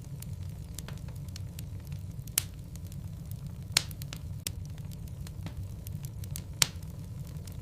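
Logs burning in a fireplace, crackling over a steady low rumble of flame, with scattered sharp pops. The three loudest pops come about two and a half, four and six and a half seconds in.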